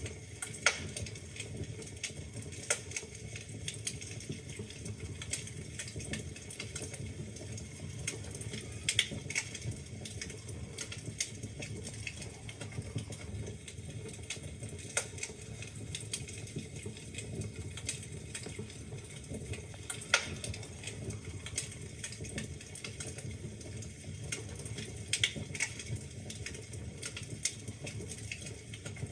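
Wood fire crackling in a fireplace: irregular sharp pops and snaps, a few louder ones scattered through, over a steady low burning rumble.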